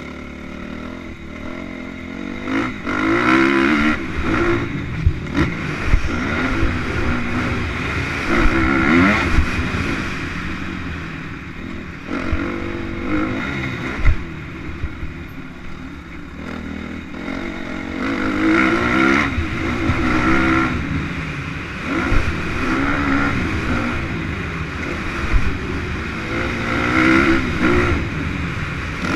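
Motocross motorcycle engine revving up and easing off in repeated surges, its pitch climbing with each acceleration every few seconds, with scattered low thumps.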